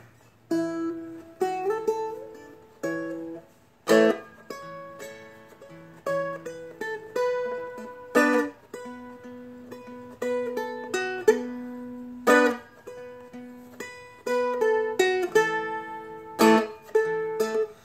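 Seagull Merlin, a four-string fretted dulcimer-style instrument, playing a picked single-note solo melody over ringing strings, with a few harder struck accents, about every four seconds.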